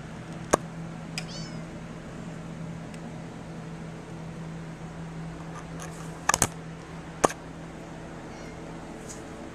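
A domestic cat giving a brief, faint chirping meow about a second in, over a steady low hum, with a few sharp clicks or taps, the loudest a double click around six seconds in.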